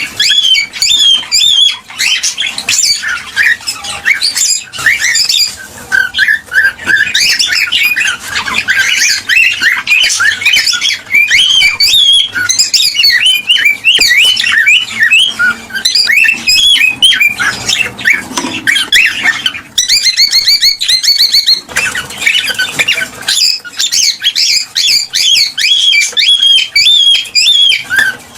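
Cockatiels chattering and calling in a fast, dense stream of chirps, whistles and squawks: the excited mating chatter used to stimulate pairs to breed. The calls break off briefly a few times.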